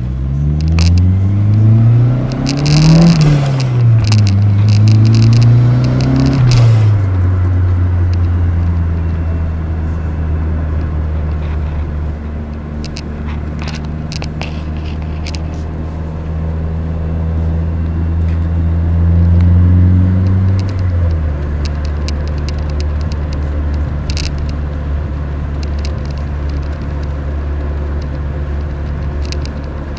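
Nissan Skyline DR30's FJ20ET turbocharged 2.0-litre four-cylinder heard from inside the cabin, pulling through the gears: the revs rise and drop with two upshifts in the first seven seconds, then it cruises steadily, with another upshift about two-thirds of the way through. Scattered clicks and rattles ride over it, and the owner says a straining oil pump can be heard in the background.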